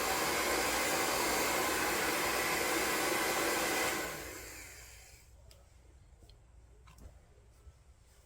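Hair dryer running with a steady rushing blow, then switched off about four seconds in, its motor winding down over about a second. A few faint clicks follow.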